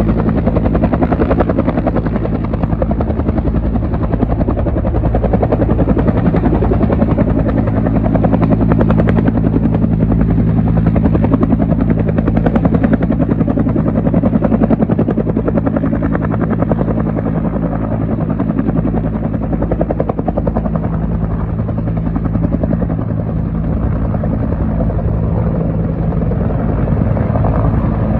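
Military helicopter running with a steady, rapid rotor beat. It stays loud and even with no clear rise or fall.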